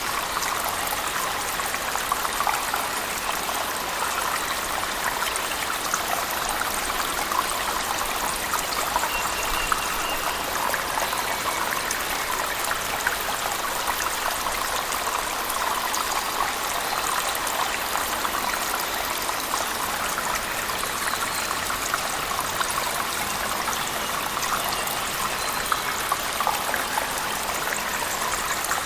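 Steady rush of a waterfall falling in a cave, mixed with heavy rain, with a dense patter of small drops and splashes.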